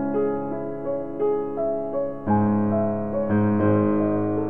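Piano music: a melody of single notes over held chords, with fuller chords struck about two seconds in and again a second later.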